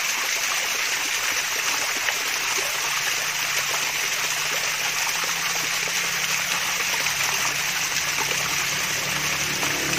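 Water from a small waterfall splashing and trickling steadily, a dense even rush of water. A faint low hum creeps in partway through and grows near the end.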